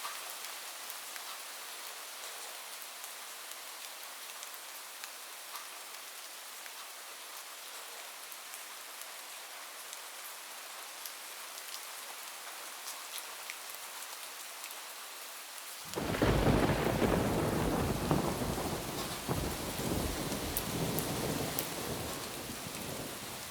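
Steady rain pattering on a roof. About two-thirds of the way through, a sudden loud thunderclap breaks in and rumbles on, slowly fading toward the end.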